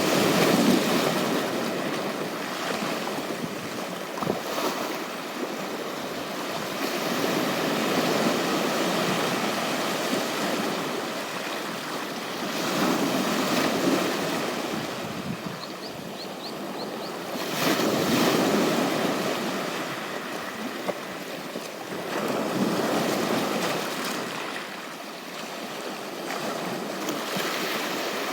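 Ocean surf washing onto a beach, a continuous rushing that swells and fades with each wave, about every four to five seconds.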